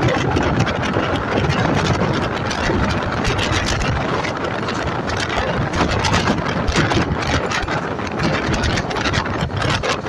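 Express passenger train running at speed, heard from aboard: a steady loud rumble and rush of the coaches on the track, dotted with many quick clicks and rattles.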